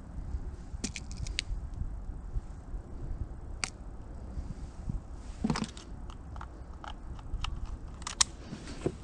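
Scattered light clicks and handling noise, with one longer scrape about five and a half seconds in, over a low steady rumble; no gunshot.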